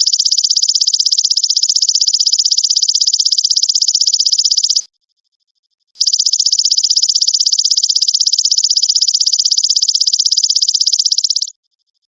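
Belalang emas (golden grasshopper) stridulating: a high-pitched, rapidly pulsing buzzy trill that stops just under five seconds in, then starts again about a second later and runs another five and a half seconds before cutting off.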